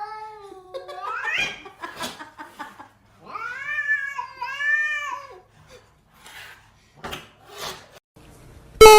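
Cat meowing in long drawn-out calls: one rises in pitch about a second and a half in, then two arched calls follow between about three and five seconds in, with a few clicks in between. A loud sound with a rising pitch cuts in right at the end.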